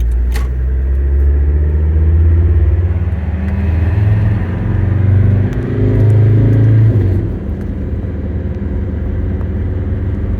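Mercedes turbo-diesel engine in a 1994 Toyota 4Runner, heard from inside the cab, pulling in a low gear with its note rising and growing louder. About seven seconds in the throttle comes off and the engine note drops back to a quieter, steady running.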